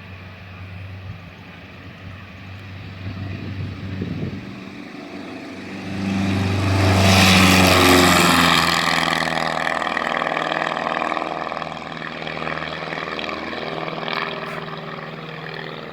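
Light propeller airplane's piston engine running at takeoff power. It grows louder to a peak about seven seconds in as the plane passes, then fades with a falling pitch.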